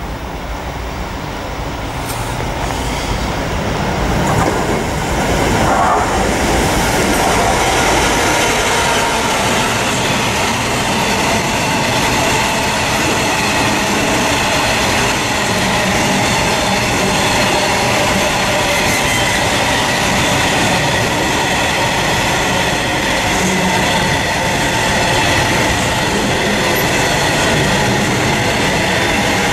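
A Class 66 diesel freight locomotive approaches and passes, growing louder over the first six seconds or so. A long train of bogie hopper wagons then rolls by with a steady, loud rumble of wheels on rails and a continuous high ringing from the wheels.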